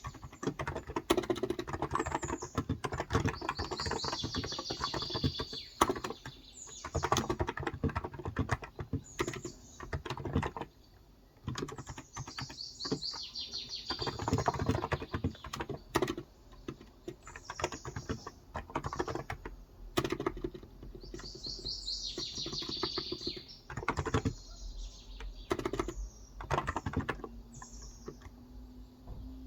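Typing on a Cox Endeavor electrocapacitive (Topre-style) 35 g tenkeyless keyboard: soft key strokes in bursts, with a short pause about eleven seconds in. Small birds chirp at intervals throughout.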